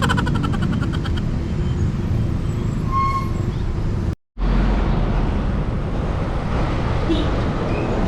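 Steady wind rush and road noise on the microphone of a bicycle ride along a road with traffic, with a short tone about three seconds in. The sound cuts out abruptly for a moment about four seconds in.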